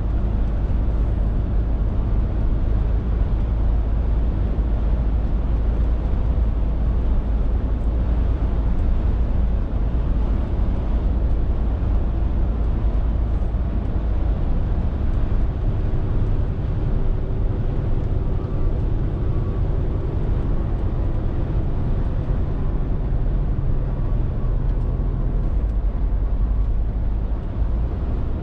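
Scania R450 lorry's inline six-cylinder diesel engine running on the move, with road noise, as a steady low drone. About halfway through the engine note changes, with more of it sitting higher in pitch, then settles back near the end.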